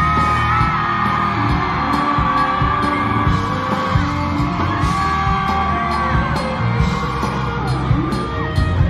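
Live pop-rock band music with drums and a gliding melodic lead, with singing and crowd shouts and whoops over it.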